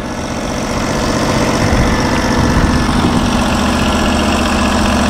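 Portable sawmill's gasoline engine running steadily at idle, growing louder over the first couple of seconds.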